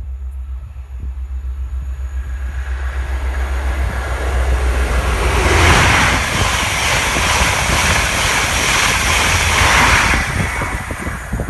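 East Midlands Trains High Speed Train (InterCity 125) approaching and passing at speed on the main line, a rushing roar of wheels and air that builds, is loudest for several seconds as the coaches go by, then falls away near the end. Wind buffets the microphone throughout.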